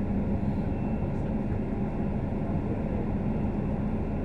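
Inside a Scania K310UD double-decker bus under way: steady engine and road noise with a constant low hum.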